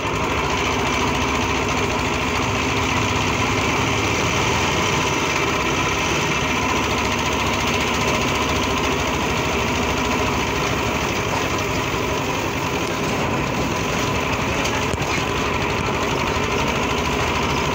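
Small motorcycle engine running steadily, heard from the passenger seat of a tricycle moving along a rough lane.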